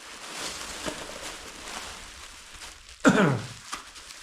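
Parts packaging being handled and rustled, with one short, loud squeak about three seconds in that drops steeply in pitch, followed by a few small clicks.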